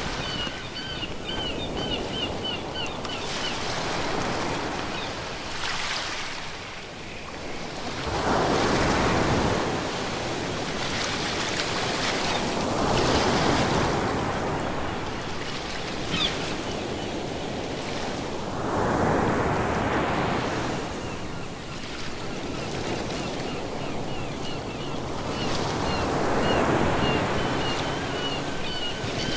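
Ocean waves breaking and washing on the shore, each surge swelling and ebbing about every six seconds, four in all. A faint rapid high chirping is heard at the start and again near the end.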